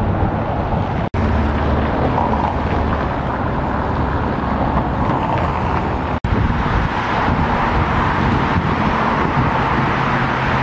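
Steady rumble and noise of a running motor vehicle, cut by two brief dropouts, about a second in and about six seconds in.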